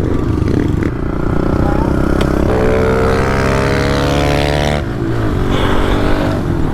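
Pit bike engines running, with one engine's note growing louder and steadier for a couple of seconds near the middle before dropping back.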